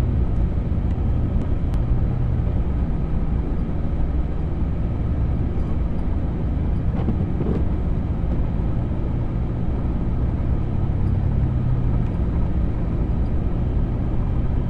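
Vehicle driving through deep snow: a steady, even engine drone with a low hum and road noise.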